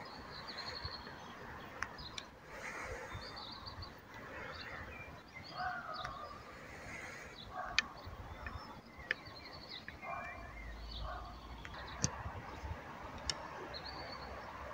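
Birds chirping and calling, short high chirps repeated every second or two, over faint outdoor background noise, with a few sharp clicks.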